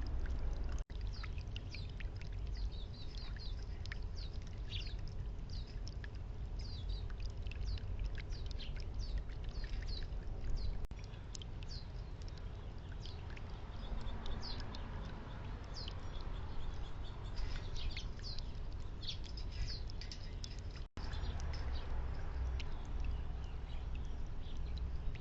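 Small backyard songbirds chirping, many short high calls over a steady low background rumble. The sound drops out for an instant twice.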